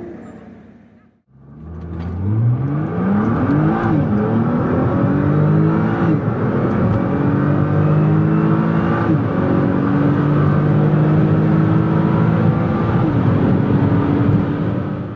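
Nissan GT-R R35's twin-turbo V6 through a catless Kline exhaust, accelerating hard through the gears. Out of a brief silence about a second in, the engine note climbs steadily in pitch and drops back at four upshifts, each gear pulling longer than the last.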